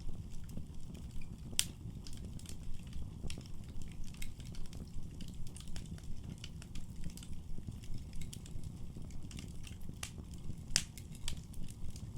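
Wood fire burning in a fireplace: a low steady rumble of flames with irregular sharp crackles and pops, two louder pops about one and a half seconds in and near the end.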